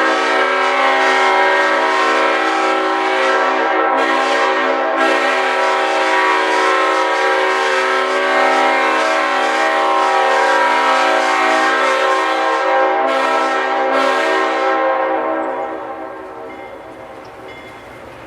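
Diesel locomotive's multi-note air horn, on an ex-CSX GE U-boat, held in a long, loud blast for about fifteen seconds, then it stops and a quieter rumble of the train remains.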